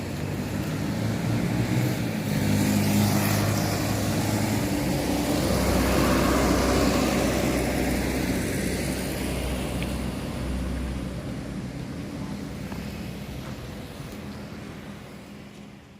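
A motor vehicle's engine running, passing: it swells over the first few seconds, holds, then slowly fades away.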